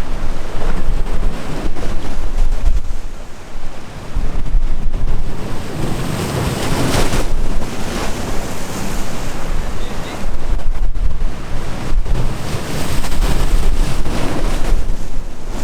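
Sea waves washing and breaking, with strong wind buffeting the microphone. The surf swells louder about halfway through and again near the end.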